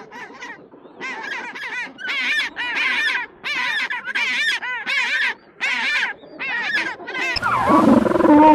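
Birds calling in a rapid series of short, harsh honking calls, about two a second, with a louder, lower call near the end.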